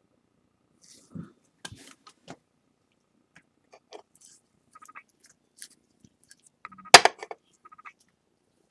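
Scattered small clicks and taps of handling a ceramic plate and lacquer brush on a work surface, with one sharper knock about seven seconds in.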